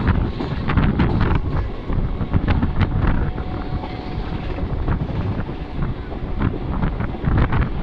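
Wind buffeting the microphone at the open door of a moving electric multiple unit train, over the low rumble of the train running. Sharp wheel clicks over rail joints come in clusters, about a second in, around the middle and near the end.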